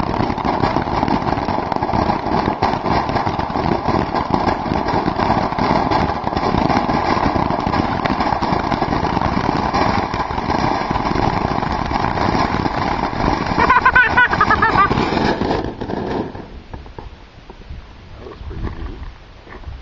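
Consumer firework fountain spraying with a steady crackling hiss, dying out suddenly about sixteen seconds in.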